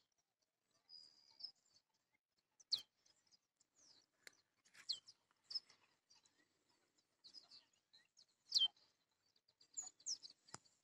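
Birds calling faintly: scattered short high chirps and a few quick downward-sliding whistles, the loudest near the end, with occasional faint clicks.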